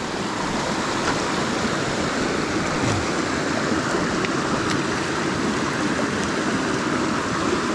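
Rushing water of a small mountain stream, a steady, even rush with no change.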